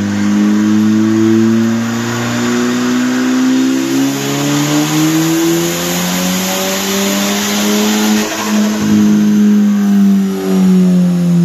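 The turbocharged 2.0 TSI EA888 four-cylinder of a Stage 3 tuned VW Bora GLI running hard and loud, its note climbing steadily as the revs rise, with a hiss over it. The note briefly dips about eight seconds in and again about ten seconds in.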